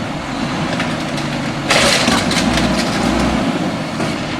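Garbage truck engine idling, with a sudden loud burst of noise about two seconds in that settles into a lower rumble for a second or so.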